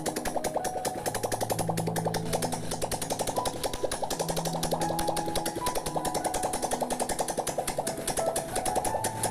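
Honda CB Shine 125 air-cooled single-cylinder four-stroke engine running at idle, a fast, even, rapid pulsing beat, on its first start after a rebuild. Background music with held notes plays underneath.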